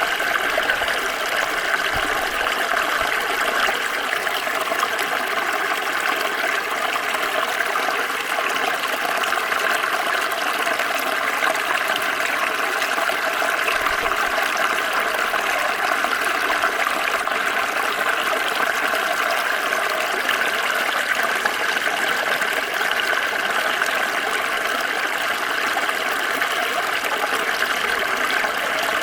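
Water flowing steadily over rocks in a small stream: an even, continuous rushing and babbling that holds the same level throughout.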